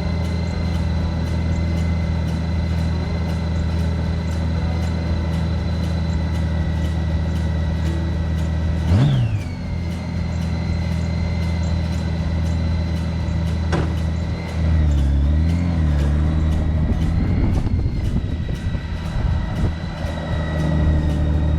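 Honda Gold Wing motorcycle engine running steadily, with a short sharp falling sound about nine seconds in. From about two-thirds through it gets louder, its engine speed rising and falling.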